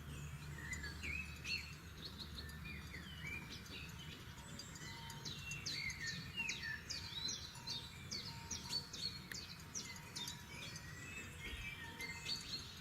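Several forest songbirds singing and calling together, a dense run of short chirps and quick sweeping notes that grows busier about a third of the way in. A low steady rumble lies underneath.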